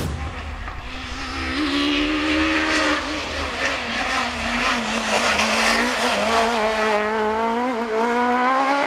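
Racing car engine held at high revs, its pitch dipping about three seconds in and then climbing steadily toward the end.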